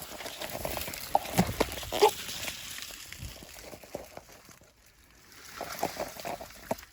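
Rustling and crackling of gorse and undergrowth being pushed through on foot, with many small snaps of twigs. It eases off for a moment around the middle and picks up again.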